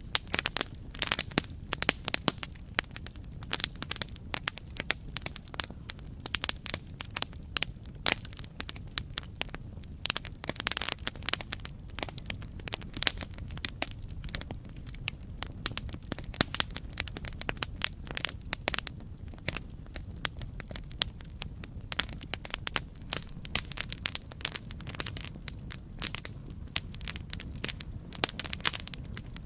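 Campfire crackling: a dense, irregular run of sharp pops and snaps from burning wood over a steady low rumble of the flames.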